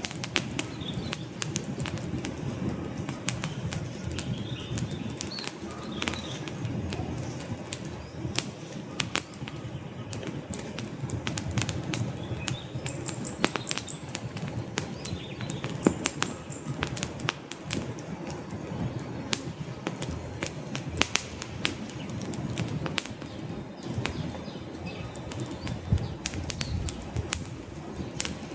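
Wood fire burning in a fireplace: dense, irregular crackles and sharp pops from the burning logs over a steady low rumble of the flames.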